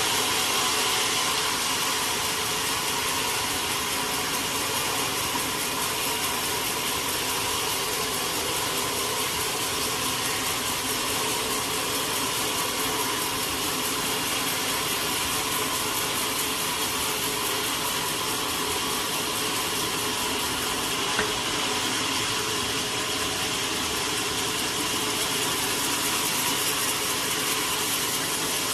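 Sawmill machinery running steadily, a continuous mechanical drone with a hiss over it and one small click about three quarters of the way through.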